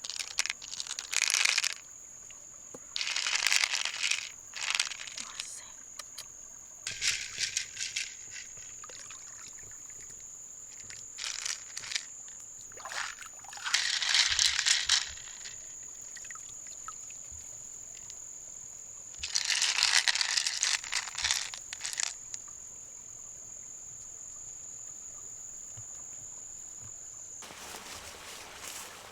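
A steady high-pitched whine that stops near the end, with several separate bursts of crackling, rustling noise over it.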